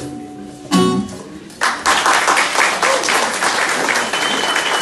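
The band's last sustained notes fade, and a final chord is struck and rings out about a second in. Audience applause starts about a second and a half in and carries on steadily.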